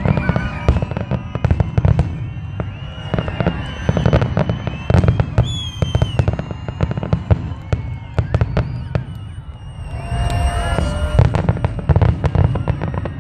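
Aerial fireworks display: shells bursting overhead with many sharp bangs and crackles in quick succession, over a constant low rumble.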